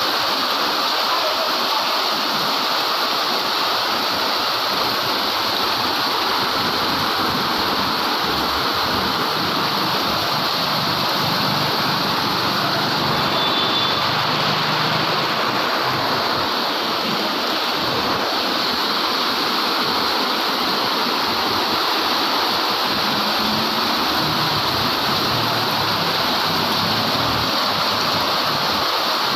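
Heavy rain pouring down in a steady, dense hiss of falling water.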